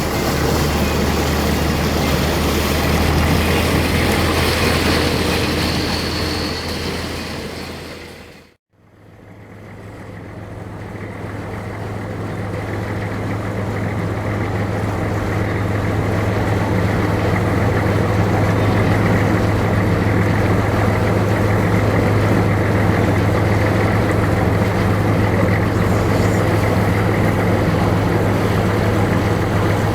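Steady low drone of a river vessel's diesel engine, with broad wind and water noise over it. The sound fades out to silence about eight and a half seconds in and fades back up into a steadier, even engine hum.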